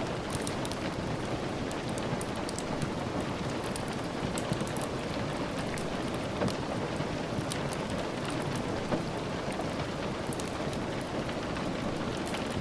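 Steady rain, with scattered faint sharp ticks over it.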